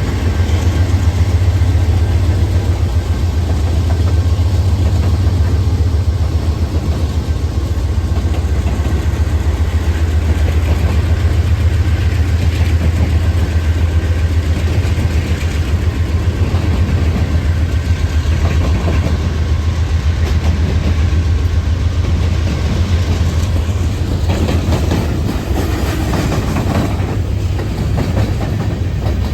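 CSX diesel freight locomotives running with a steady low drone while freight cars roll along the rails, with the wheel and rail noise growing near the end.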